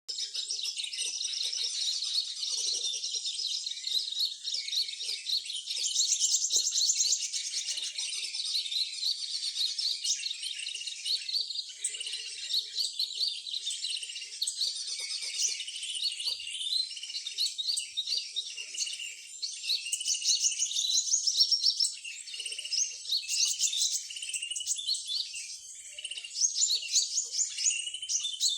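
Many small birds chirping and trilling at once, high-pitched calls overlapping densely with fast repeated notes.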